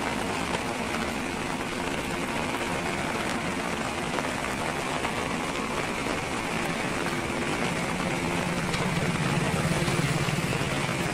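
Heavy rain falling steadily, with a low mechanical hum underneath that grows a little louder near the end.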